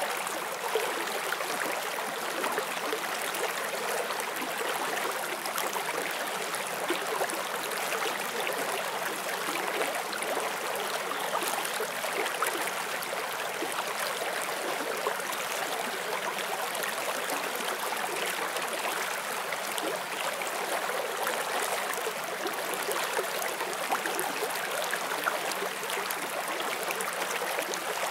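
Forest stream flowing steadily over rocks, a continuous babble and splash of moving water.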